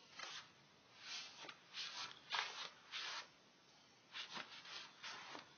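A series of short rustling, rubbing noises at close range, about nine in a few seconds and irregularly spaced.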